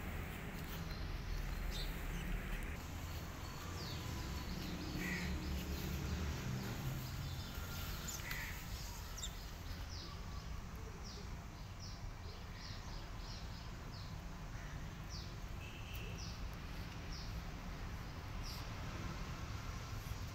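Outdoor birds calling: a few louder calls about five and eight seconds in, then a run of short, high chirps through the second half. A low background rumble sits underneath and is heavier in the first few seconds.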